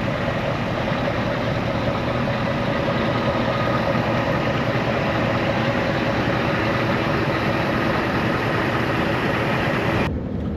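Heavy truck's engine running steadily, a constant drone with several steady tones in it. The sound drops away abruptly near the end.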